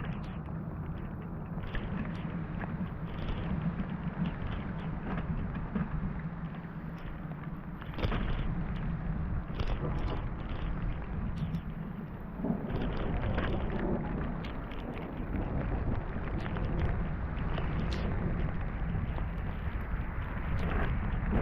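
Heavy rain falling, with many single drops striking close by and a low rumble underneath; the sound grows louder about eight seconds in and again a few seconds later.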